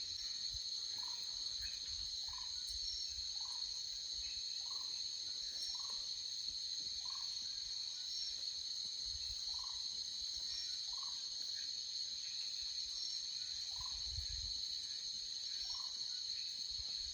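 Steady high-pitched drone of insects, with a short, lower call repeating roughly every second or so throughout.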